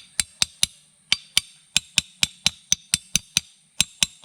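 A new sprocket carrier bearing being tapped into its housing with a hand tool, working evenly round its edge: quick light metal taps with a short ring, about four or five a second, in short runs with brief pauses.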